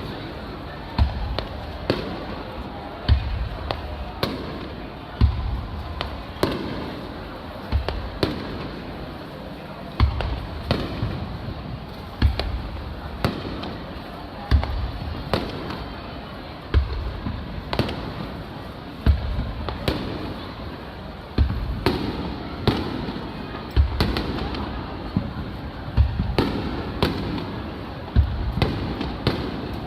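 Aerial fireworks shells bursting in a steady barrage, a deep boom about once a second, each trailing off in a rumble, with smaller crackling pops in between.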